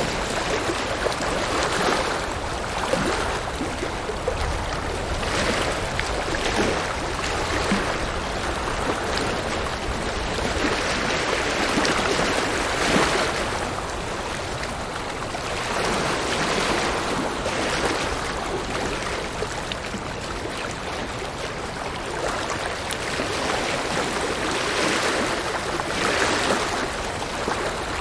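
River water rushing and splashing over rocks, a continuous rushing noise that swells and eases every second or two.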